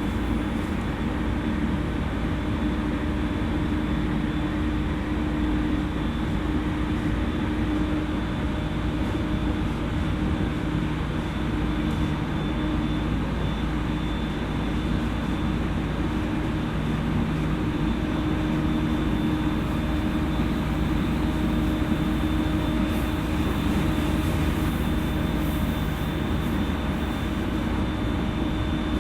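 E231 series electric commuter train running at a steady pace, heard from inside a passenger car: an even rumble from wheels and track with a few constant hum tones through it.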